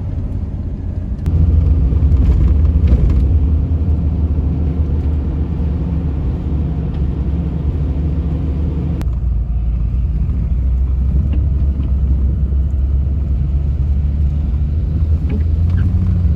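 A motor vehicle driving, heard from inside: a steady low engine and road rumble that gets louder about a second in.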